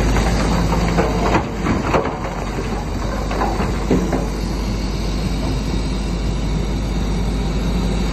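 Bulldozer's diesel engine running steadily under load, with several metallic clanks and scrapes from its steel tracks and blade against stone in the first half.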